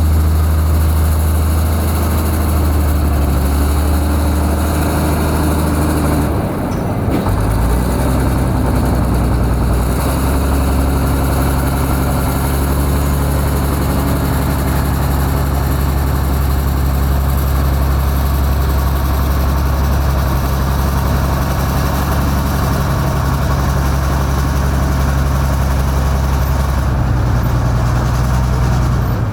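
Heavy diesel engines of construction machinery running steadily at a low, even note; the engine note dips and changes about seven seconds in.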